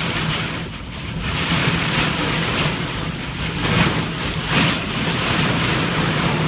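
Storm noise: strong wind gusting against the microphone with a rushing like surf or floodwater, swelling and easing every second or so, over a faint steady low hum.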